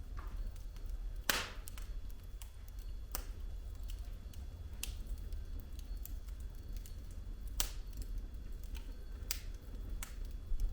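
Wood fire crackling in a fireplace: burning logs give scattered sharp pops and snaps, the loudest about a second in, over a steady low rumble.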